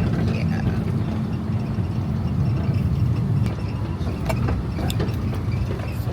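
Vehicle engine and road noise heard from inside a moving car or van: a steady low rumble with a few faint clicks.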